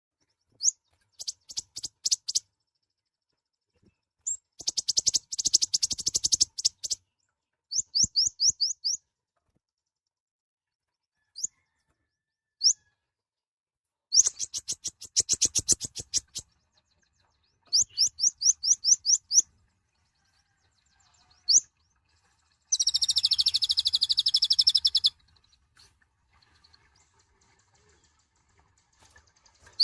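A kolibri ninja, a small sunbird, singing in bursts of rapid, high, sweeping chirps, several notes a second, with pauses between phrases. About two-thirds of the way through comes a longer, harsh, buzzy phrase of about two seconds.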